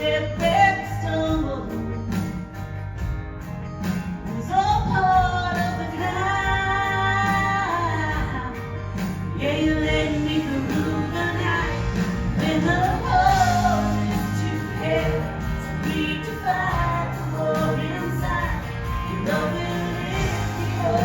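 A woman singing a slow gospel song over a band with bass and keyboards, holding long notes and bending them up and down without clear words.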